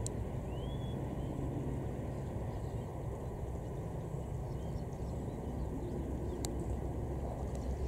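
Distant passenger train hauled by an EMD HGMU-30 diesel-electric locomotive running away along the track: a steady low rumble. A short rising bird chirp comes about half a second in, and a sharp click near the end.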